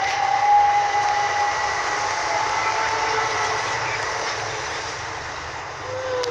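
Class 375 electric multiple unit running through the station: wheel-on-rail noise with a steady electric whine, slowly fading.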